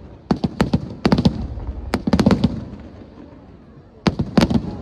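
Aerial fireworks bursting in quick clusters of sharp bangs: a run of cracks in the first second and a half, another around two seconds in, a short lull, then a fresh volley near the end.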